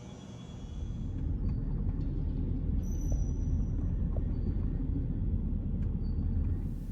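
Porsche Cayenne S 4.5 V8 with a muffler-bypass tube in its exhaust, going from a steady idle-like note to a louder deep exhaust rumble under throttle about a second in, as it drives by in an echoey parking garage.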